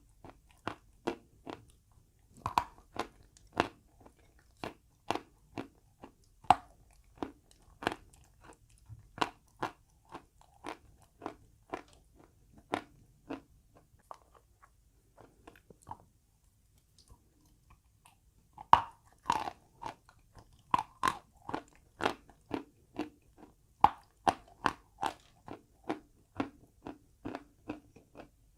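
Chalk crunched and chewed close to the microphone: steady crisp crunches about twice a second. They stop for a few seconds past the middle, then start again with a louder bite.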